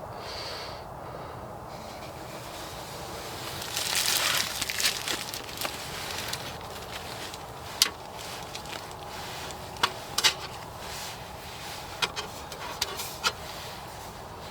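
Hands handling small gear: a burst of rustling about four seconds in, then a few sharp scattered clicks and taps.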